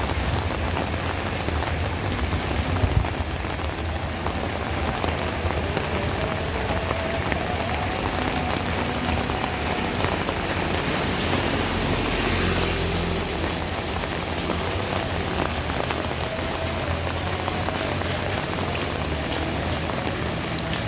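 Heavy rain falling steadily, with a hiss that swells louder around the middle and a faint low hum underneath.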